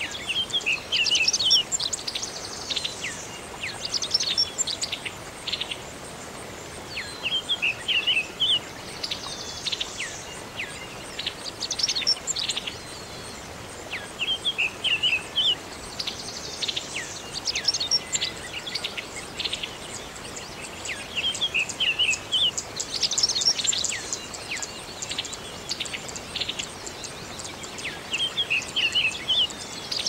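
Songbirds singing. One bird repeats a short phrase of quick, high chirps about every seven seconds, with other birds' calls in between, over a steady background hiss.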